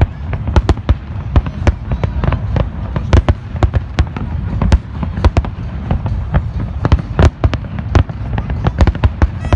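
Fireworks display: a rapid, irregular barrage of sharp bangs, several a second, over a continuous low rumble.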